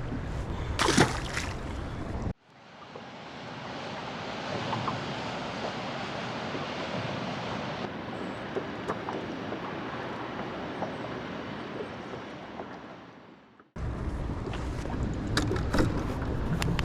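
Steady rushing of water, faded in about two seconds in and ending abruptly near the end. Before and after it, wind on the microphone and water around a boat.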